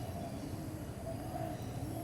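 Low, short arching bird calls repeating about twice a second over a steady low rumble.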